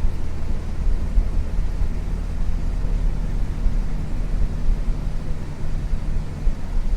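Cabin sound of a 1994 Isuzu U-LV224N city bus under way: its 6QB2 diesel engine runs with a fairly steady low hum, together with road noise.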